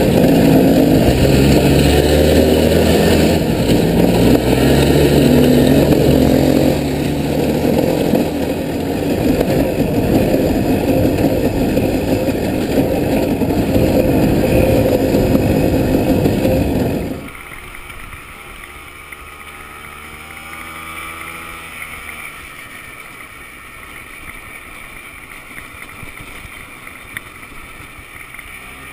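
Off-road vehicle engine running under way, loud with its pitch rising and falling as the throttle changes. About two-thirds of the way through, the sound drops abruptly to a much quieter engine note.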